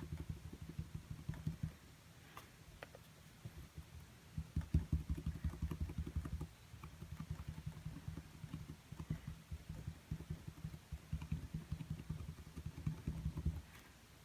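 Rapid, dull tapping as paint is dabbed onto a small canvas. The tapping pauses for about two seconds near the start, then resumes and stops shortly before the end.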